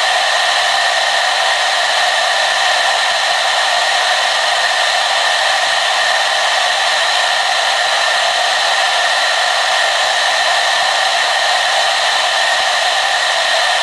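Hair dryer running steadily: a constant rushing of air with a steady whine in it.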